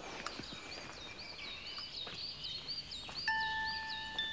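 A small bird chirping, a quick run of short high chirps about three a second. About three seconds in, a clear steady tone starts and holds for over a second.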